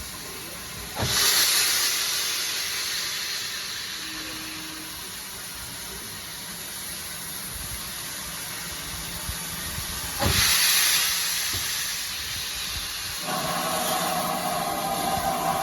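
Steam locomotive letting off steam: a loud hiss starts suddenly about a second in and fades over several seconds, and a second burst comes about ten seconds in. A steady hum returns near the end.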